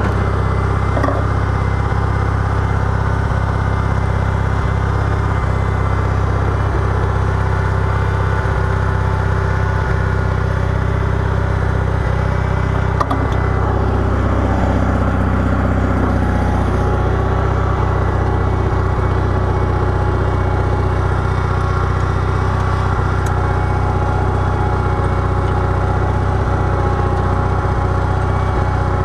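Small garden-tractor engine running steadily under load while plowing snow, with a slight change in tone about halfway through.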